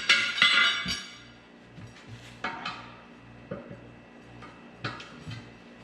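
Metal clinking and clanking: a cluster of loud, ringing metal strikes in the first second, then scattered lighter knocks and clicks.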